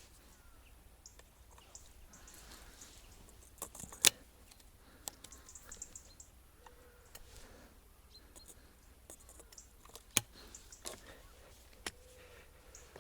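Quiet background with scattered small clicks and rustles, and two sharp clicks, about four seconds in and about ten seconds in.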